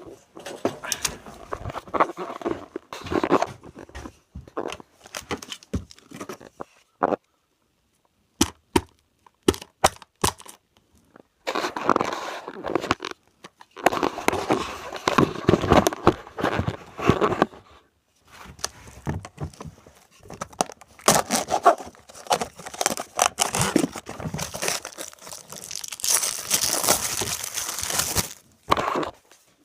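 Product packaging being torn open and handled by hand: irregular tearing and crinkling with sharp clicks, broken by a few short pauses.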